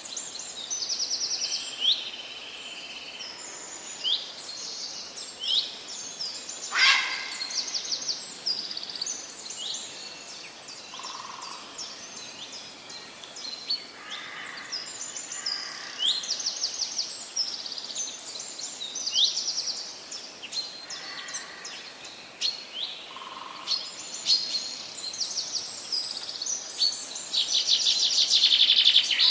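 Several birds calling and singing, a busy mix of short high chirps, quick downward-sweeping whistles and fast trills, with one louder rapid trill near the end.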